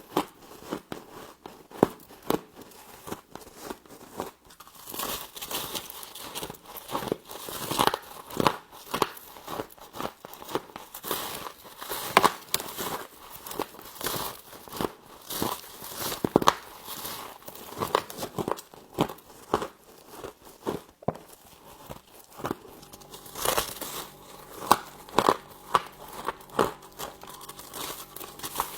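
Frost being bitten and chewed close to the microphone: a dense, irregular run of sharp crunches and crackles.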